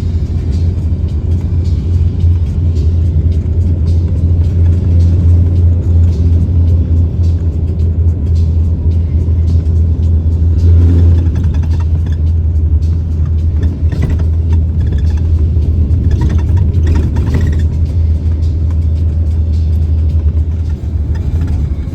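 A steady low rumble, with music.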